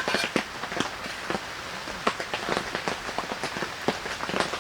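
Heavy rain coming down on a tent shelter, a steady hiss broken by many irregular, sharp drops striking close by.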